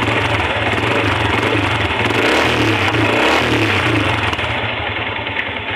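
Yamaha Sniper 150's single-cylinder four-stroke engine idling, revved up briefly around the middle and dropping back to idle. It is noisy at idle and the noise goes away with revs, which the owner suspects comes from the clutch damper.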